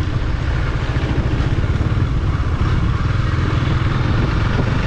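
KTM Duke 250's single-cylinder engine idling steadily, with a low, even rumble.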